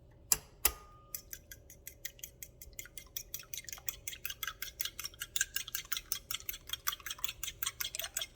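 Two sharp knocks, then a fork beating eggs in a bowl: fast, even clicking, about seven or eight strokes a second.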